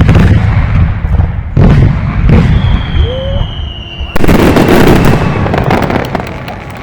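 Fireworks shells bursting: deep booms in the first two and a half seconds, then a louder burst about four seconds in, followed by dense crackling that fades out.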